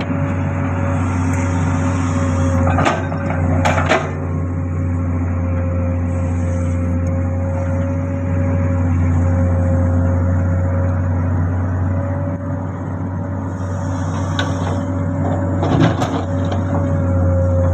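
Komatsu excavator's diesel engine running steadily under load with a steady high whine, and a few sharp clanks about 3 and 4 seconds in and again near the end.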